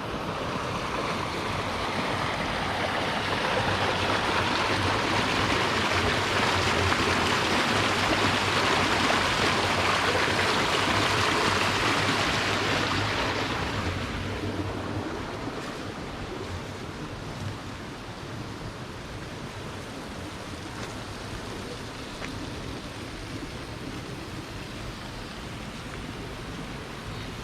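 Flowing river water rushing steadily. It is louder for the first dozen seconds, then eases off after about fourteen seconds to a quieter, even rush.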